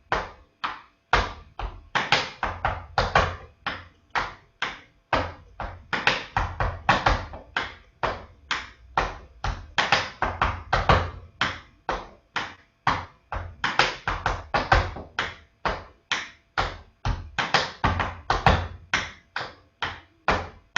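Tap shoes striking a hard floor in a quick, uneven rhythm of taps, several a second. Some strikes land heavier, as stomps and heel drops in the tap steps.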